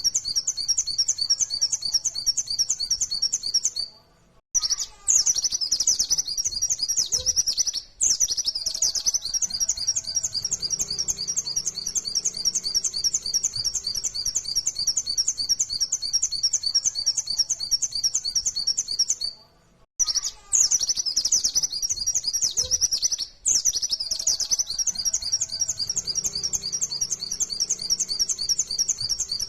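White-eye (pleci) singing a fast, continuous, high-pitched chattering song, with two brief breaks about four and twenty seconds in.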